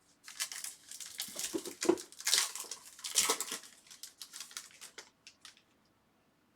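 Foil wrapper of a trading card pack being torn open and crinkled in the hands, in irregular crackling bursts that die away about five seconds in.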